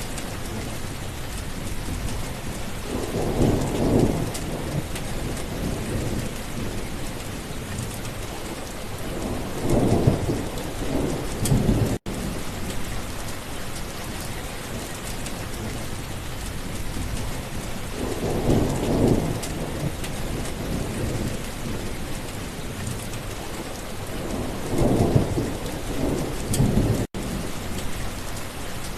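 Steady rain falling, with four low rolls of thunder spread through, each swelling and fading over a few seconds. Twice the whole sound cuts out for an instant.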